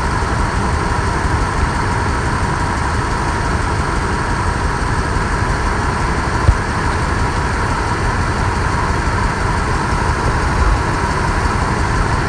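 Ford 4.6L V8 idling steadily while misfiring on cylinder number 5, whose fuel injector connector is not pushed in all the way. A single sharp click about six and a half seconds in.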